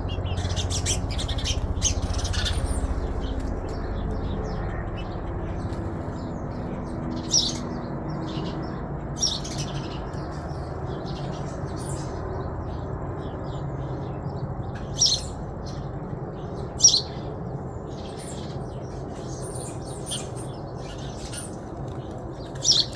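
Birds chirping in short, scattered calls, a few of them louder and sharper, over a steady low rumble.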